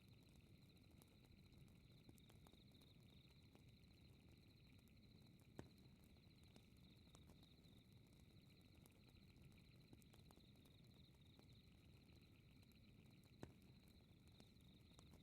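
Very faint night ambience: crickets chirping steadily over a low rumble, with the small scattered crackles of a fire and two sharper pops about five and a half and thirteen seconds in.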